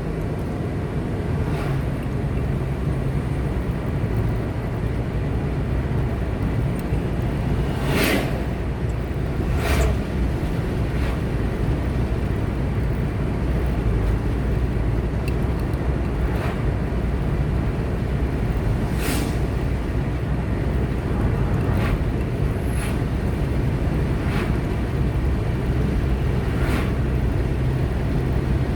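Car driving along a road: steady engine and tyre noise, with a few short sharp ticks or knocks at irregular moments.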